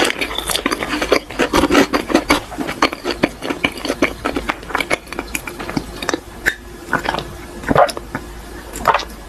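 Close-miked chewing with dense wet mouth clicks and smacks for the first few seconds, thinning out to scattered smacks; near the end, a couple of gulps from a drink.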